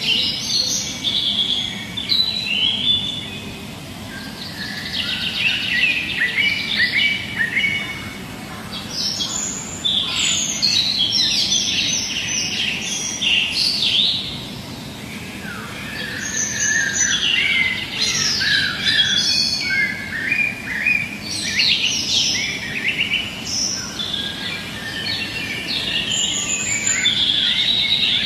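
Many birds chirping and singing at once in a continuous, overlapping chorus of rapid high twittering phrases, over a steady low background hum.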